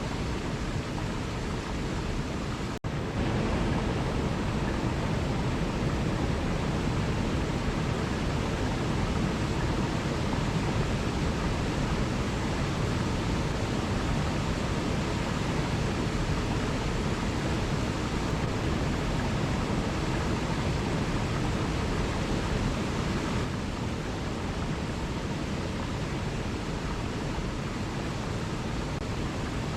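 Waterfall rushing in a steady, even roar of falling water, broken once by a split-second gap about three seconds in.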